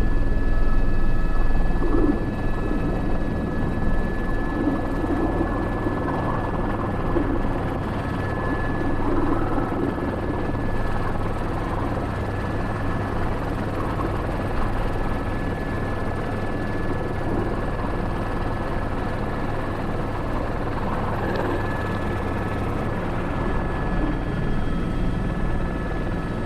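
Airbus H125 (AS350 B3) helicopter heard from inside the cockpit: steady rotor and turbine noise with a constant high whine, unchanging throughout.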